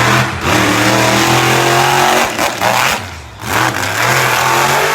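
Monster truck engine running hard at high revs. The revs drop briefly just after the start, then fall away and stutter for about a second midway before climbing back up.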